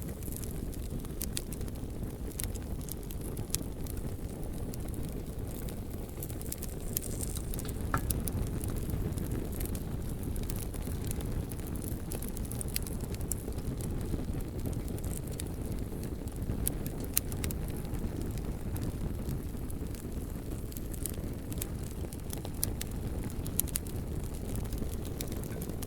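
Bonfire burning with a steady low rumble of flames and frequent sharp crackles and pops from the burning wood, scattered irregularly throughout.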